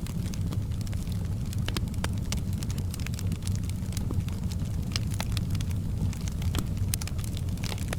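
Wood fire burning in a fireplace: a steady low rumble of the flames with frequent sharp crackles and pops scattered irregularly.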